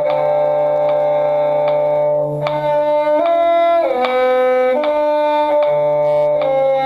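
A violin and cello duet played slowly and smoothly in two parts, a low held line under higher sustained notes that change pitch about every second.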